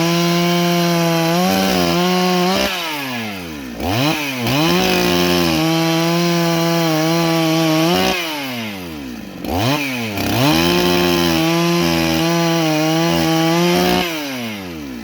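Holzfforma G288 two-stroke chainsaw with a 24-inch bar held at full throttle three times for about three to four seconds each, cutting through lumber, its engine note sagging back to low revs between cuts.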